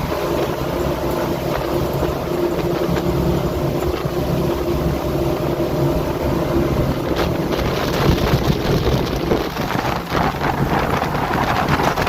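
A boat's engine running steadily under way, with water rushing and splashing against the hull and wind buffeting the microphone, growing louder and rougher from about seven seconds in.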